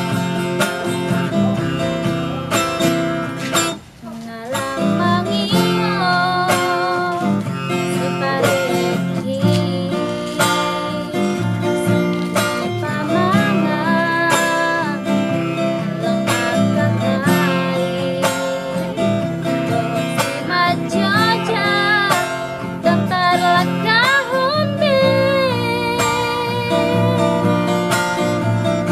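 A woman singing with acoustic guitar accompaniment, holding long wavering notes. The music drops out briefly about four seconds in, then resumes.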